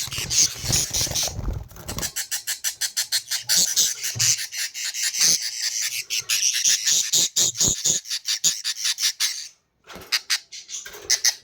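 Parrot screeching in rapid, harsh, high-pitched pulses, several a second, breaking off briefly near the end before a few more calls. A low rumble sits under the calls in the first two seconds.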